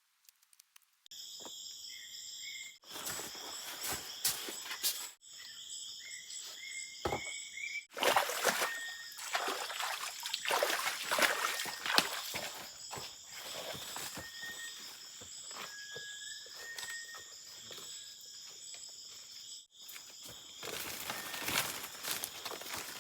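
Rainforest ambience: a steady, high insect chorus with crunching and rustling, like steps through leaf litter, and a few short high whistles.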